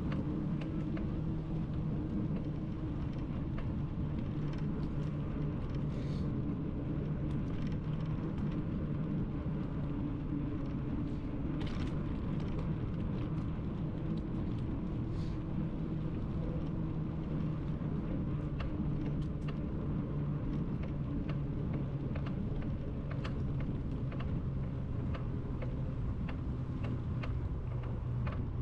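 Steady low rumble of a bicycle ride on pavement, with a faint low hum and scattered light clicks.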